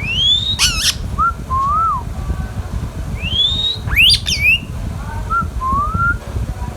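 Indian ringneck parrot calling: a rising whistle, a short harsh screech, then a few soft, lower whistled notes, the whole phrase given twice.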